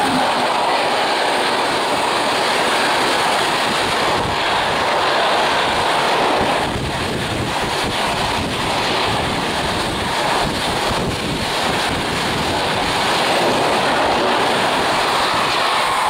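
Train passing close at speed: a steady rushing roar of wheels on rail and air, with a few faint clacks in the middle.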